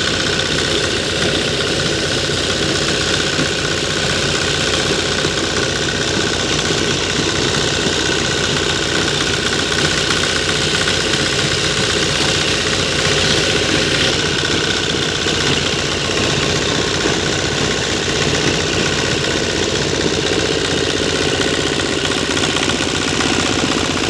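Sonalika tractor's diesel engine running steadily while it drives a borewell water pump through its PTO.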